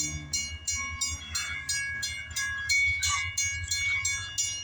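CSX diesel locomotive 6358 running, a heavy low engine rumble that throbs unevenly. Over it is a fast high-pitched pulsing, about five beats a second.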